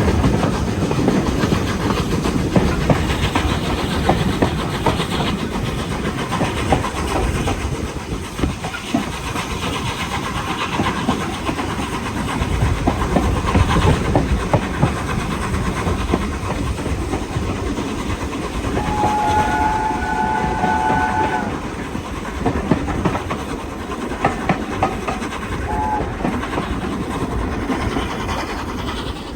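Train behind A1 Pacific steam locomotive 60163 Tornado running steadily, wheels clicking over the rail joints. About twenty seconds in, a whistle sounds for around two seconds.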